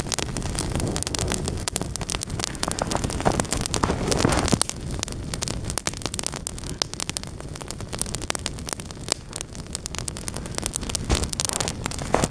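Small campfire kindled with spruce resin, crackling with many irregular sharp pops over a steady hiss.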